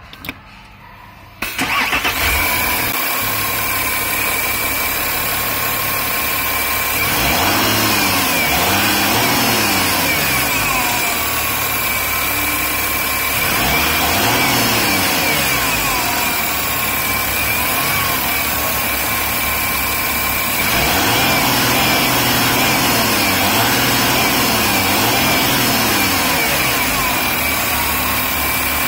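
2012 Audi Q7 TDI diesel engine cold-starting about a second and a half in, then idling steadily, heard from under the hood.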